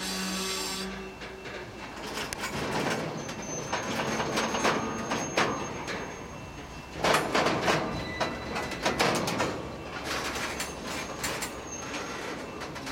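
A freight train rolling slowly through yard track, its wheels clanking and rattling over rail joints and switches, with a thin high wheel squeal twice.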